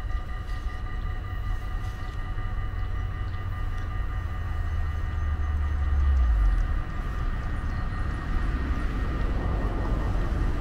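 A loaded coal train, hauled by two DB Cargo class 189 electric locomotives, approaching from a distance: a steady whine of several tones over a low rumble, with rail noise building toward the end. The low rumble swells briefly about six seconds in.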